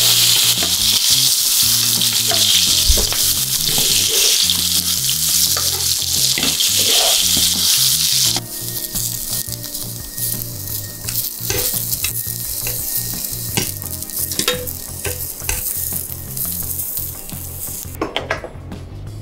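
A thick ribeye steak sizzles loudly in hot butter in a frying pan. About eight seconds in, it cuts to a quieter sizzle of asparagus on a ridged grill pan, with the clicks of metal tongs turning the spears.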